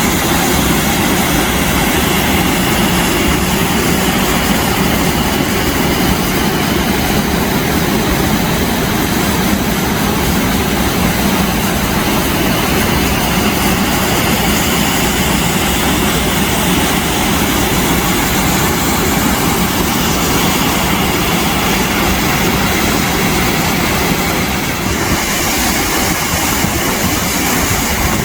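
Waterfall and river water rushing as a loud, steady, unbroken roar.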